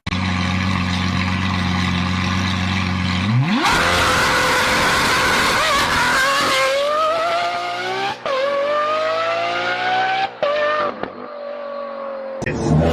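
Volkswagen Golf engine and exhaust: a steady idle for about three seconds, then the engine revs up sharply and pulls hard. Its pitch climbs several times, with short breaks in between, as the car accelerates.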